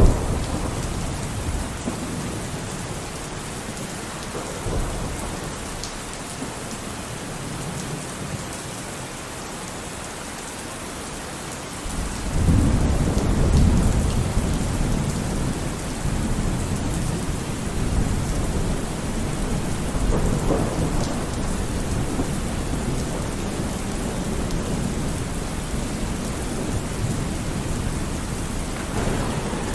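Steady rain falling in a thunderstorm, with thunder: a low rumble swells up suddenly about twelve seconds in and keeps rolling on under the rain.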